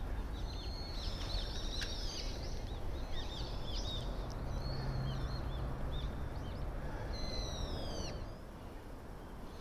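Small birds chirping and twittering repeatedly, short high calls one after another, over a steady outdoor background noise. A faint low hum runs through the middle.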